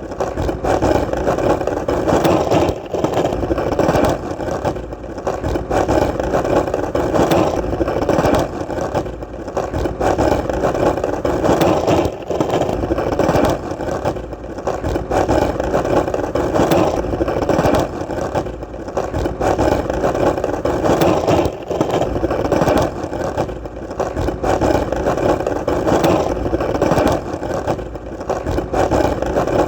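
Skateboard wheels rolling steadily over hard pavement: a continuous grainy rumble dotted with small clicks, its level swelling and dipping every couple of seconds.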